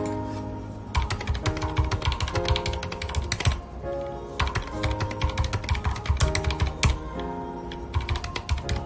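Typing on a mechanical keyboard with red linear switches: quick runs of keystrokes broken by short pauses, three runs in all. Background music with held notes plays underneath.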